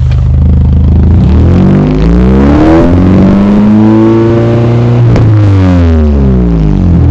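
Opel Calibra engine and exhaust being revved while standing: from idle the pitch climbs, holds high for a couple of seconds, drops sharply about five seconds in, then rises and falls again in a shorter blip near the end.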